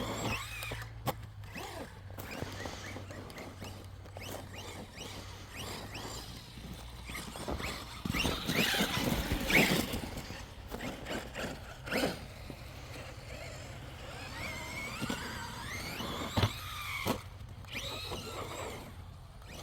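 Electric RC truck motor whining up and down in pitch as it is throttled on and off, driving in snow. The whine is loudest about halfway through.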